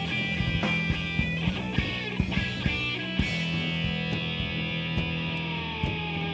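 Rock band playing an instrumental passage live: electric guitar holding a chord over drums. Near the end a guitar note bends down in pitch and comes back up.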